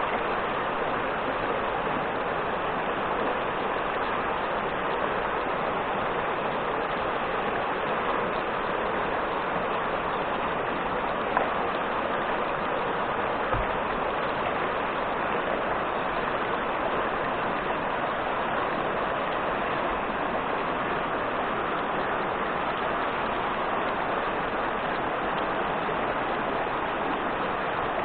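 Steady rushing of fast-flowing river water, with two faint knocks about halfway through.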